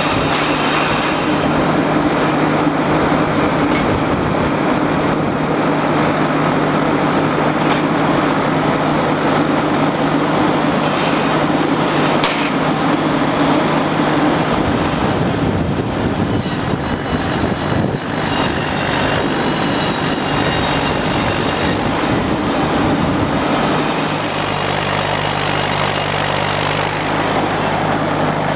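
Truck-mounted mobile sawmill with a circular blade, running with a steady engine drone. A high wavering whine rises over it from about 16 to 22 seconds in, and the engine settles to a lower, steadier hum about 24 seconds in.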